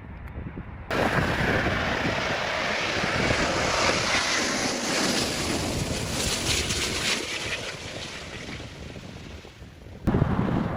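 Jet airliner passing close by on the runway: a loud rushing engine noise that starts abruptly about a second in and slowly fades away, with wind buffeting the microphone. Near the end it switches suddenly to a low, wind-blown rumble.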